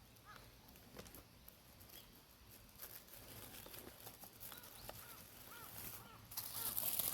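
A bird calling with a run of short, arched chirps repeated every few tenths of a second in the second half, over scattered small clicks and taps. A louder rustling, crinkling noise starts near the end.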